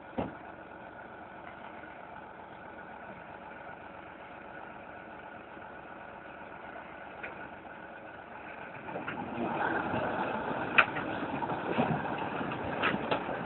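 Heavy vehicle engine running steadily at idle. About nine seconds in it grows louder, a rumble with rattling and several sharp knocks.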